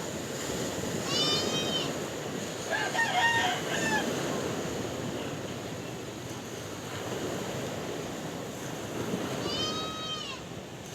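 Steady wash of sea waves, with a rooster crowing over it: pitched calls about a second in, about three seconds in, and near the end.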